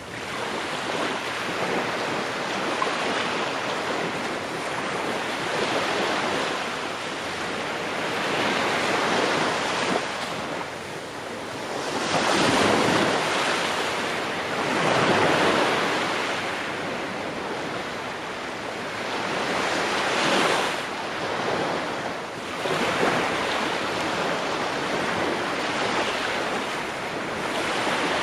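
Ocean waves breaking and washing on a shore, a continuous rush of surf that swells and ebbs every few seconds, with several louder breakers partway through.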